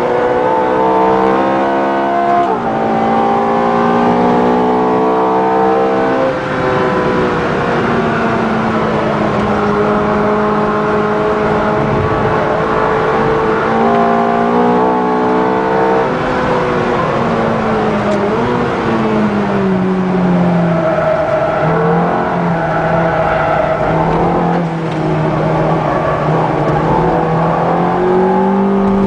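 Ferrari F430's 4.3-litre V8 heard from inside the cabin, pulling hard and rising in pitch through the revs with sudden drops at the gear changes. Later the pitch falls away as it slows, then holds steadier near the end.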